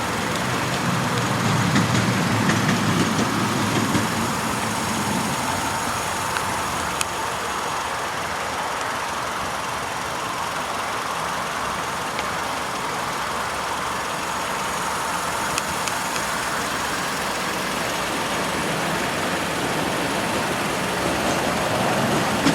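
A 2011 Kia Carens's 2.0-litre inline-four engine idling steadily.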